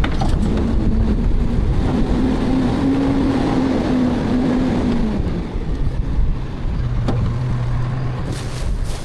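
Garbage truck's engine running with a steady low rumble. A tone enters early, climbs a little and holds for about five seconds, then drops away. A single sharp knock comes near the end.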